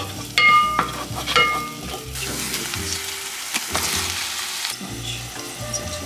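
Spring onion and onion sizzling in a pot as they are stir-fried with a wooden spatula, which knocks against the pot twice near the start. The sizzle grows louder for a couple of seconds in the middle as minced pork is added.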